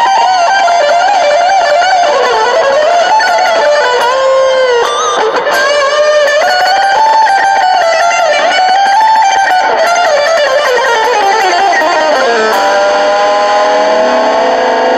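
Overdriven electric guitar playing a single-note lead through a Super Overdrive pedal, digital delay and small solid-state practice amp. The line has wavering string bends and vibrato, with a long slide down in pitch near the end followed by held notes.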